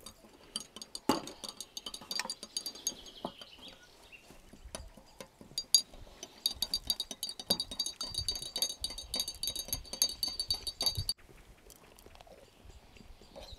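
Cutlery and dishes clinking and tapping during cooking, many small sharp clicks, with a dense run of rapid high ticking in the middle that cuts off suddenly.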